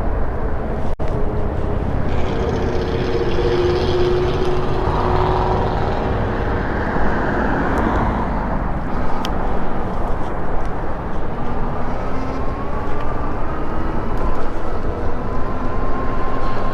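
Steady road and wind noise from riding an e-bike along a street with traffic, with a short dropout about a second in. In the second half a thin whine slowly rises in pitch.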